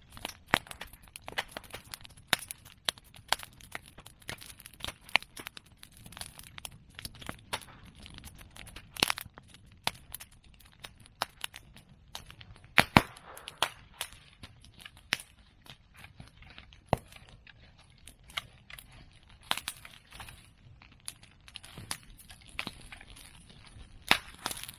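Bonfire of cut medake bamboo and chestnut prunings burning: constant crackling with frequent sharp pops, a few much louder cracks standing out, the loudest about thirteen seconds in.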